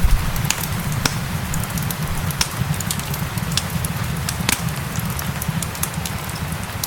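Wood fire crackling, with sharp irregular pops, over a steady hiss of rain and a low rumble underneath.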